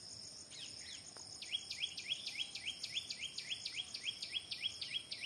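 A bird calling a rapid, even series of short rising chirps, about four a second, starting about a second and a half in, over a steady high-pitched drone of crickets or other insects.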